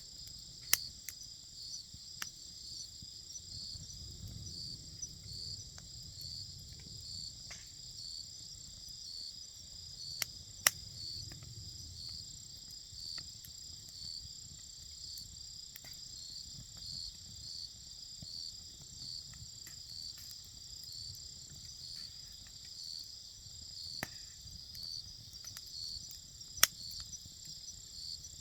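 Wood campfire with a few sharp pops over a low rumble, against a steady, evenly pulsing high chorus of insects.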